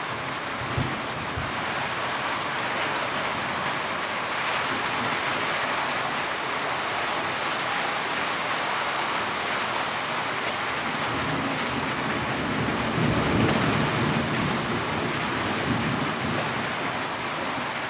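Heavy rain falling steadily, with two soft thumps near the start. A low rumble swells up and fades about two-thirds of the way through.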